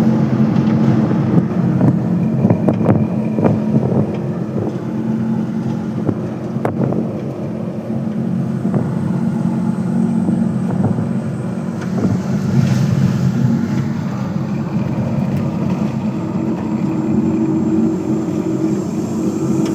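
Vehicle engine running steadily on the move, a continuous low hum with wind buffeting the microphone.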